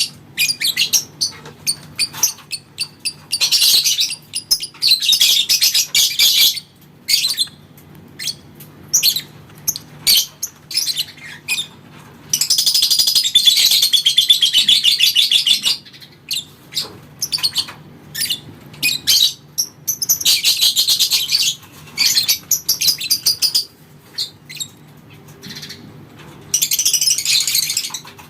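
Lovebird chattering (ngekek): several long, rapid, high-pitched trills, the longest about three seconds in the middle, with short sharp chirps between them.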